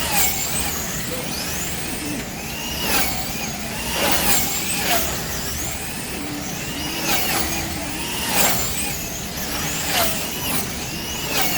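Wing slot cars racing: their small electric motors whine in repeated high pitch glides that rise and fall as the cars speed up and slow for the turns, with sharp clicks every second or so.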